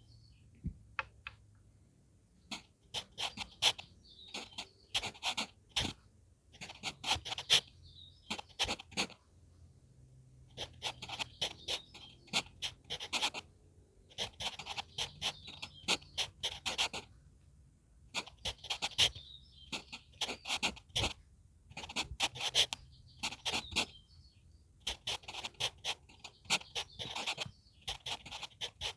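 HB pencil writing on manuscript paper: quick scratchy strokes in clusters of about a second, with short pauses between characters. Birds chirp faintly in the gaps.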